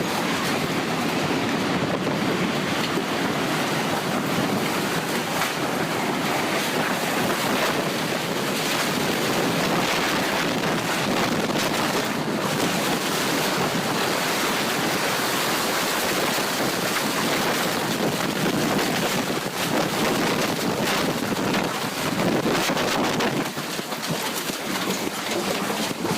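EF4 tornado striking a house: a loud, steady rush of wind and debris, heavily buffeting the phone's microphone. It eases off near the end.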